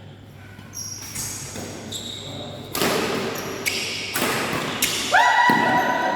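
A badminton rally in a large hall: sharp racket strikes on the shuttlecock and footfalls, with short high squeaks of shoes on the court floor, all echoing. Near the end a longer, steady high tone starts and holds.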